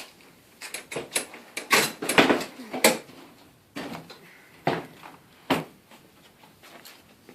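Clatter of garage door parts being handled: a quick run of knocks and clinks in the first three seconds, then a few single knocks.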